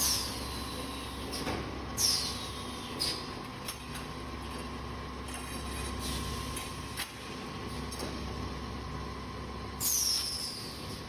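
Automatic copper tube end forming and flatting machine running through its cycle. It gives a steady hum with a thin whine, broken by short hisses that fall in pitch, each starting with a click, four times at uneven intervals.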